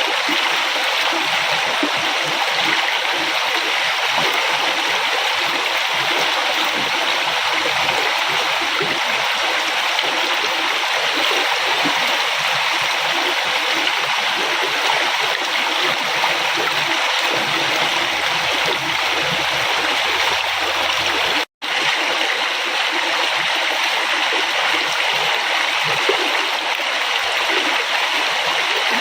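A river flowing and gurgling in a steady, even rush of water, with one momentary gap in the sound about two thirds of the way through.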